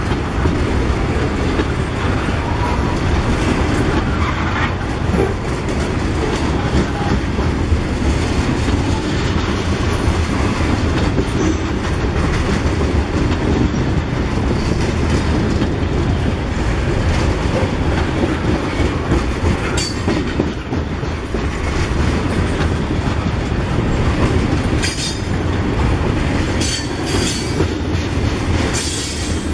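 Freight train of tank cars rolling past at speed: a steady, loud rumble of steel wheels on rail, with sharper clacks and squeals now and then, mostly in the last few seconds.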